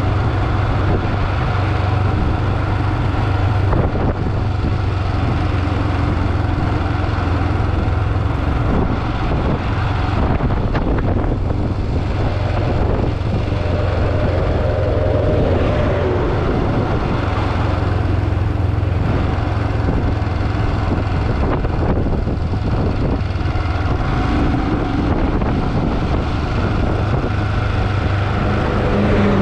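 Motorcycle engine running at a steady cruise, with the rush of wind and road noise.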